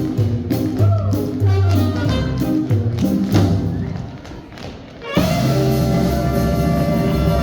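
Swing band music with tap shoes striking the floor in quick rhythmic taps. About four seconds in the music and taps fall away, and about five seconds in a loud held band sound comes in abruptly.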